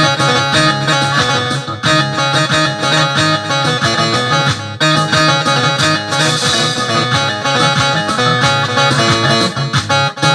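Arranger-keyboard music from a Syrian-style sound set, led by a plucked-string instrument sound and playing continuously.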